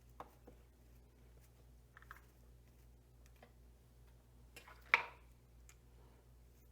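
A few faint clicks, then one sharp, louder clack about five seconds in, as LintEater dryer-vent-brush parts are handled and fitted together. A low, steady hum sits under it all.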